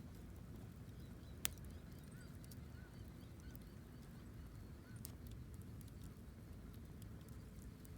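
Wood fire crackling, with a few sharp pops, the loudest about a second and a half in, over a low steady rumble. A faint short high note repeats about five times in the middle.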